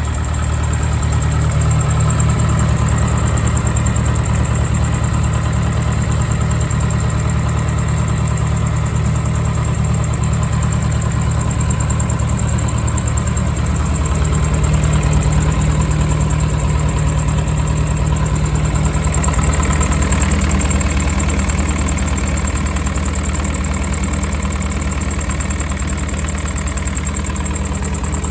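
A 1978 Leyland 154 tractor's engine running steadily at idle.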